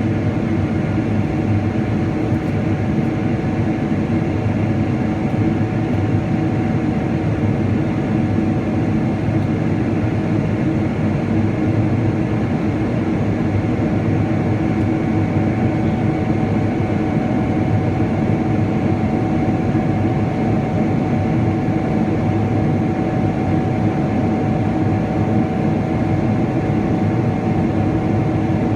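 Steady cabin drone of a Boeing 777-300ER in flight: its GE90 engines and the airflow over the fuselage make a broad, even rumble with a few steady hums laid over it.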